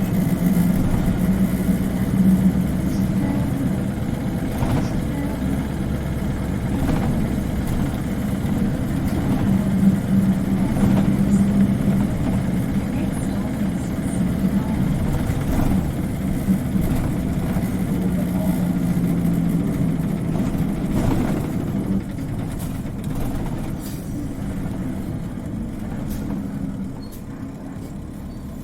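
Interior sound of an Isuzu Cubic KC-LV380N city bus driving: the engine note swells and eases in stretches several seconds long over a steady drone, growing quieter over the last few seconds. This bus's engine is known for an unusual high-pitched sound compared with other Cubics.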